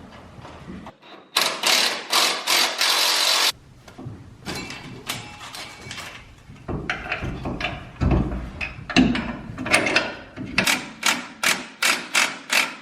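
Shop tool noise from work on a truck's rear suspension during shock installation: a two-second burst of rapid pulsing noise, scattered clanks, then a run of quick sharp knocks, about four a second, near the end.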